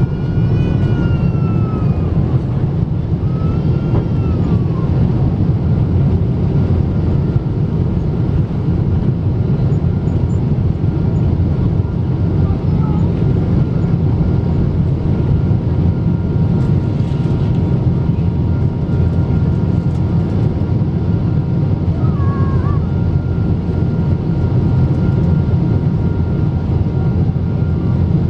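Steady engine and airflow roar inside the cabin of a Boeing 777-200 airliner, deep and even, with two faint steady whining tones above it.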